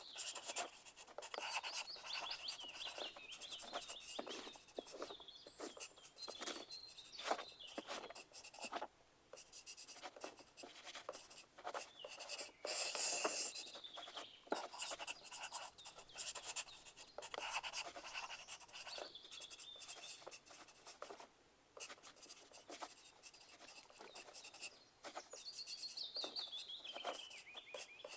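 Pencils scratching on paper in a steady, irregular stream of short writing strokes, with a louder rustle about halfway through and some high gliding chirps now and then.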